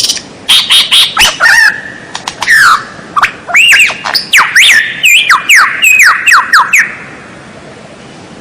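White-rumped shama singing a rapid, varied song of sharp notes and quick whistles, many of them swooping down in pitch. The song stops about seven seconds in.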